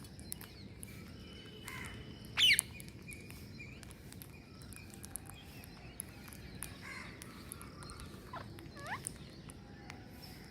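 Green parrots calling with short, shrill, sweeping screeches over a steady outdoor background. The loudest call comes about two and a half seconds in, with two falling calls near the end and faint chirps in between.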